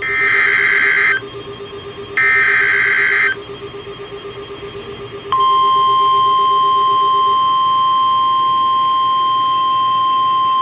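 Emergency Alert System warning tones: the last two bursts of the SAME digital header, each a harsh buzzing data burst about a second long, then about five seconds in the steady 1050 Hz warning alarm tone starts and holds.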